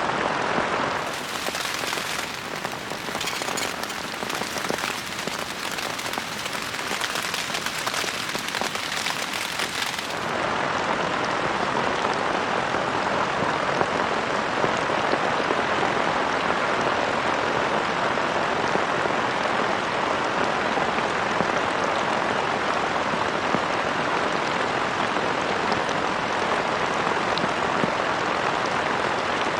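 Heavy rain falling steadily. For the first ten seconds or so it is brighter, with many separate drops pattering; then it settles into a dense, even hiss.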